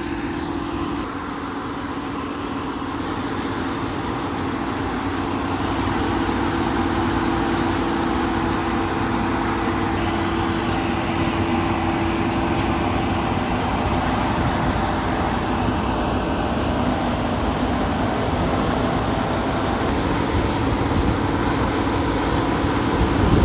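Combine harvester running with its threshing drives engaged as it starts cutting: a steady machine noise with a constant hum, growing louder over the first several seconds.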